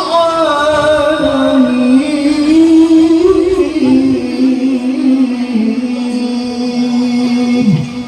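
A man reciting the Quran in the melodic tilawah style, drawing out one phrase as a long, ornamented line of turns and slides that settles into a held note and ends shortly before the close.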